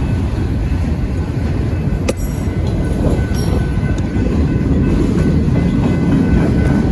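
A train passing close by: a loud, steady low rumble of wheels on the rails, with a sharp click about two seconds in and a fainter one about two seconds later.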